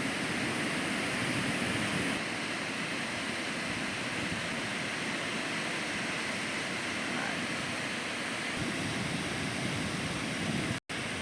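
Surf breaking on a beach: a steady, even wash of waves. The sound cuts out completely for a moment near the end.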